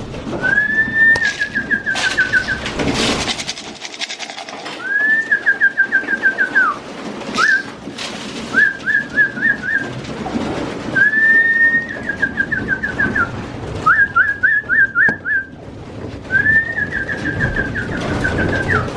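Racing pigeons cooing while they feed, with a few brief bursts of wing noise. Over them a whistled phrase repeats about every five or six seconds: a rising note, then a quick run of short falling notes.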